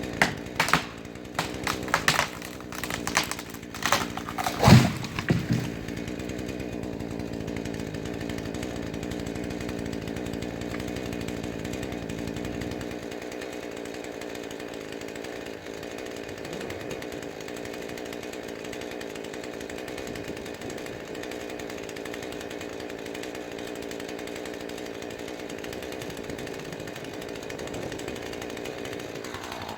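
Husqvarna 440e two-stroke chainsaw running at a steady, even pitch. Over the first few seconds come a quick series of sharp cracks and knocks, the loudest a heavy thump about five seconds in.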